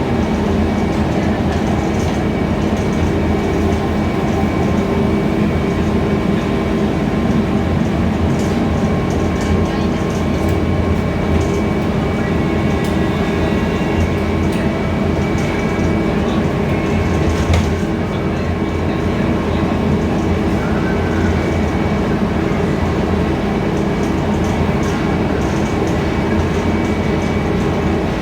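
Scania K320iA CNG city bus underway, heard from inside the cabin: a steady engine drone with road noise and occasional rattles.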